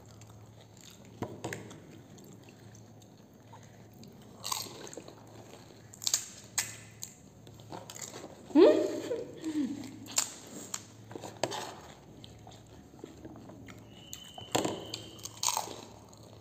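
Crisp golgappe (pani puri) shells being bitten and chewed with full mouths: sharp crunches at irregular intervals, with wet chewing between them. About halfway a short voice sound falling in pitch, a mouth-full murmur, is the loudest moment.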